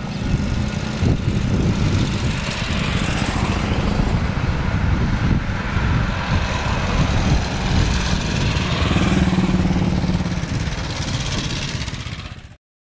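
Vintage motorcycle engine running with a rapid, uneven firing beat. The sound cuts off suddenly near the end.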